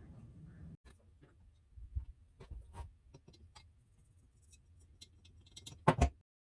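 Scattered light clicks and taps of tools and small metal parts being handled, over a faint low hum, ending with two sharp louder clicks close together near the end.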